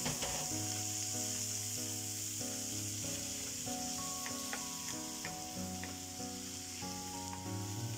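Chopped tomato, onion and pork sizzling steadily as they fry in coconut oil in a nonstick pan, stirred with a wooden spatula that clicks and scrapes against the pan now and then. Soft background music with held notes plays underneath.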